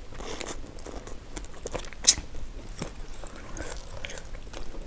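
Eating seafood close to the microphone: wet chewing and smacking with scattered small clicks. One sharp, loud click comes about two seconds in.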